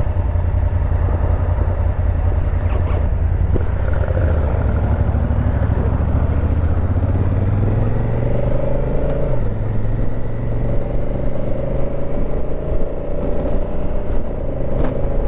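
Motorcycle engine under way, from the 2019 Honda Africa Twin CRF1000L DCT's parallel twin, with wind and road noise. The engine pitch climbs for a few seconds past the middle, drops suddenly at a gear change, then holds steady.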